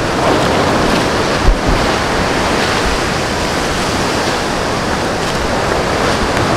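Steady, loud rushing noise with a single low thump about a second and a half in.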